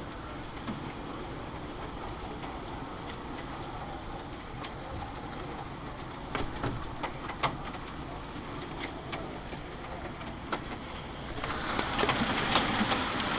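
Rain and hail falling in a thunderstorm, with scattered sharp hits of hailstones, growing heavier and louder with more frequent hits near the end.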